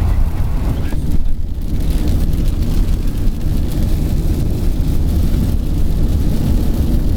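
Steady low road and wind rumble inside a moving car, with rain hitting the car as a fine crackling hiss over it.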